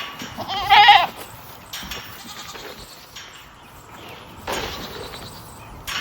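One wavering, bleating call from a farm animal, lasting under a second about half a second in, followed by a fainter, noisier sound a few seconds later.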